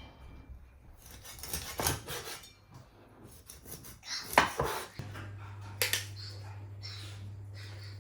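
Dishes and cutlery clinking and scraping, with one sharp clatter about four seconds in. A steady low hum starts about five seconds in.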